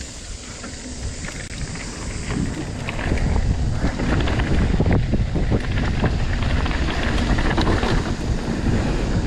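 Wind buffeting the camera microphone over the rumble of a mountain bike riding a dirt trail, with many short knocks and rattles. It gets louder about three seconds in as the bike picks up speed.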